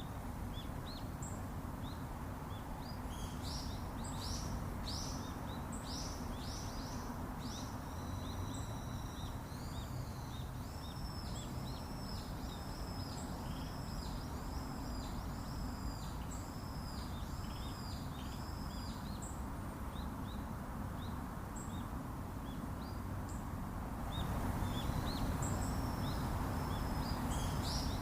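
Outdoor ambience of birds chirping, with one bird repeating a series of arched, whistled notes, roughly one a second for about ten seconds, over a steady low rumbling hiss.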